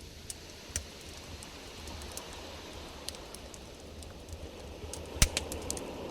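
Campfire crackling: scattered sharp pops and snaps, one much louder snap about five seconds in, over a low wind rumble.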